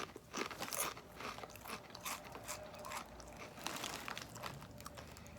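Chewing a Doritos tortilla chip: irregular, crisp crunches and crackles as the chip breaks up in the mouth.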